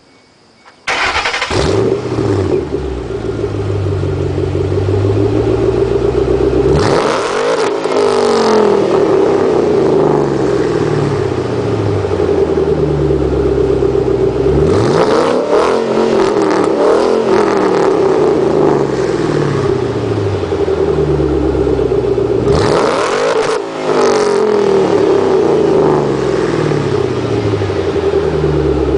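2006 Ford Mustang GT's 4.6-litre V8 through a Pypes off-road H-pipe and FRPP Stinger mufflers, started about a second in, then idling and revved up and back down three times.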